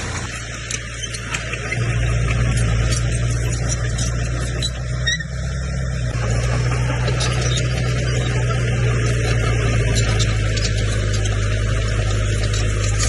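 Komatsu bulldozer's diesel engine running steadily, getting louder about two seconds in, with scattered clicks and squeaks.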